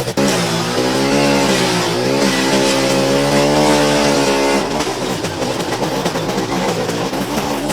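Small petrol engine of a garden power tool running. Its pitch dips and rises about two seconds in, holds steady, then turns rougher and noisier from about halfway through.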